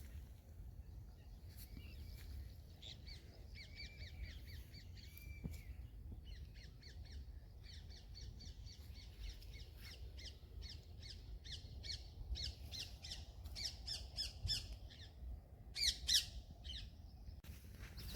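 Birds calling outdoors in quick chattering series of short, harsh notes, with the loudest calls near the end over a low steady rumble.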